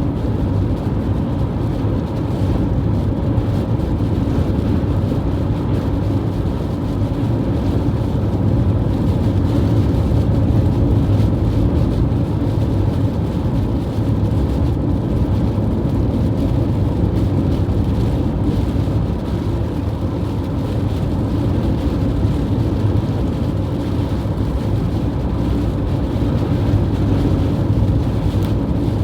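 Strong wind blowing and buffeting the microphone: a loud, steady low rumble.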